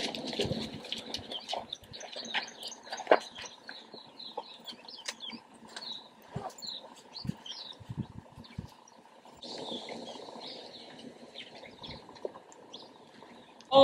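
Birds chirping in short, scattered calls over a quiet outdoor background, with a single sharper knock about three seconds in.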